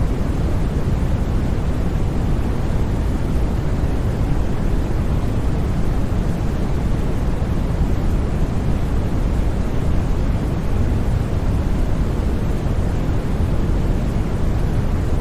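Steady, unchanging synthetic white noise, a constant hiss with most of its weight in the low end.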